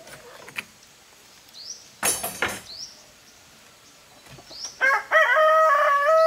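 A rooster crows once, starting about five seconds in: a long, held call that falls in pitch at the end. Before it come a short, sharp noise about two seconds in and a few short bird chirps.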